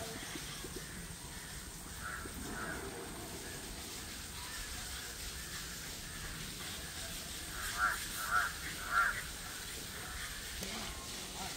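A bird calling: three short, loud calls about half a second apart, some eight seconds in, with fainter calls of the same kind about two seconds in, over a steady outdoor background hum.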